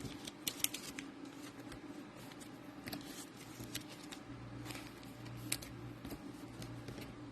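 Trading cards and hard plastic top-loaders being handled: scattered light clicks and taps over a faint low hum.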